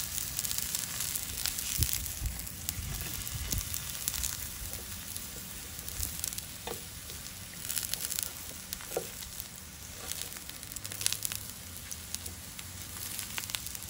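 Eggplant slices sizzling in hot oil in a nonstick frying pan: a steady hiss with scattered sharp pops and clicks as the slices are turned with tongs.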